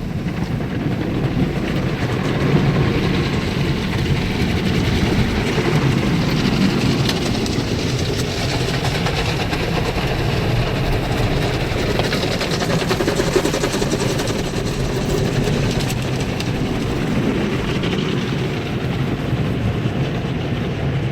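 Automatic car wash running over the car, heard from inside the cabin: a steady rush of water spray with a low machinery rumble.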